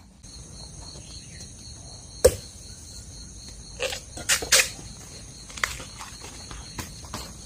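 Steady high insect chirring with a pulsing beat, broken by about seven sharp knocks and rustles. The loudest knock comes about two seconds in, and a cluster of them falls near the middle.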